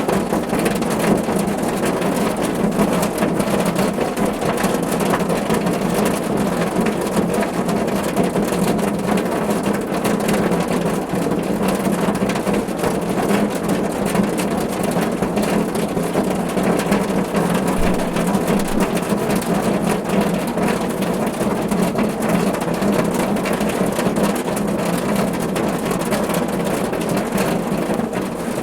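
Steady rain falling on a car roof, a dense, even patter of countless drops with a low hollow body to it.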